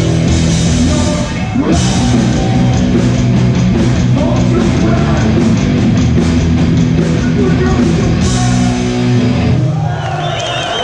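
Hardcore punk band playing live, with distorted electric guitars, bass and drums, loud. The song stops suddenly near the end and crowd noise takes over.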